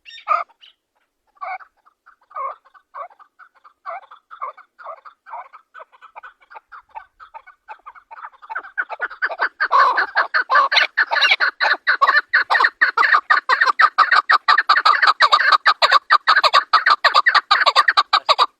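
Chukar partridge calling: spaced chuck notes about two a second, building about halfway through into a fast, louder run of chattering chuck notes.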